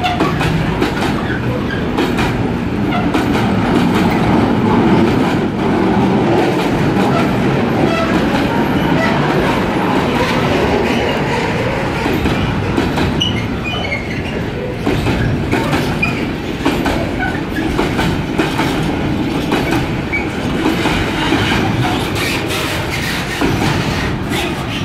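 Freight train of loaded container flat wagons rolling past close by: a steady rumble with the wheels clattering over the rail joints, easing off near the end as the last wagons go by.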